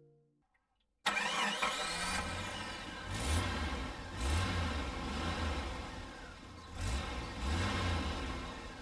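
A vehicle engine starts abruptly about a second in and runs, its revs swelling and easing several times.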